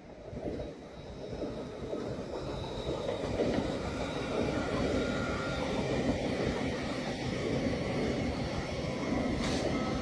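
A train running on the track, the rumble of its wheels and carriages growing louder over the first couple of seconds and then holding steady, with a faint thin whine from the wheels on the rails.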